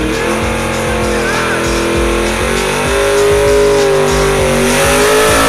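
Drag car's engine held at high revs during a burnout, its pitch wavering slightly, under a rap track with a steady beat.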